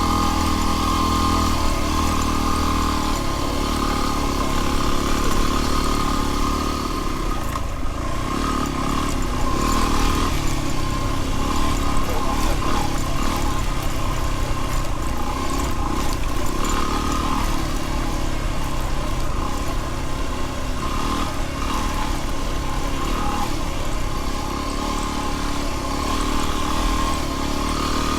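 Dual-sport motorcycle engine running steadily while riding, its pitch shifting only slightly with the throttle.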